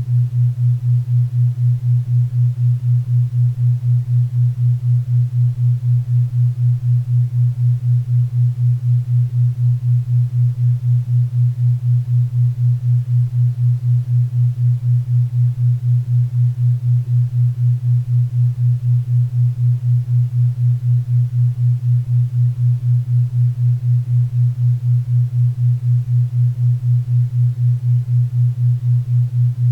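A low hum-like tone pulsing evenly about four times a second: a 4 Hz theta-wave brainwave-entrainment beat, over a faint bed of pink and brown noise.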